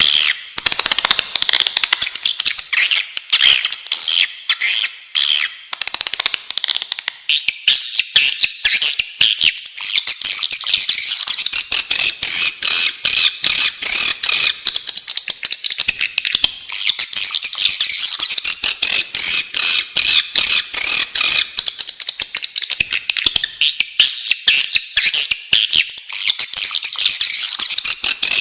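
Swiftlet calls, a swiftlet lure recording: a continuous chorus of rapid, high chirps and clicking twitters that thickens into a denser, higher chatter about seven seconds in.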